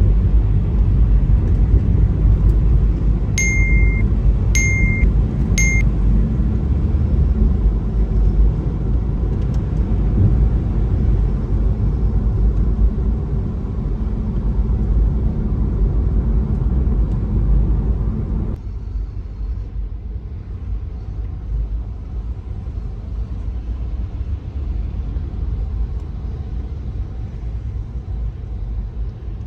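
Low, steady rumble of a car on the road, with three short high beeps a little after 3 seconds in. About 18 seconds in, the rumble suddenly becomes quieter and duller.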